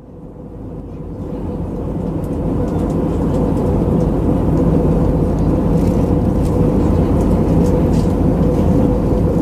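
Steady cabin drone of an Airbus A319-112 in descent: engine and airflow rumble with a steady hum, fading in over the first few seconds.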